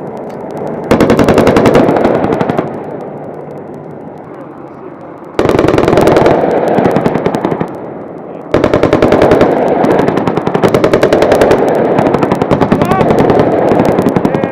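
AH-64 Apache's 30 mm M230 chain gun firing three long bursts of rapid, evenly spaced shots, the last one running several seconds. A steady helicopter hum fills the gaps between the bursts.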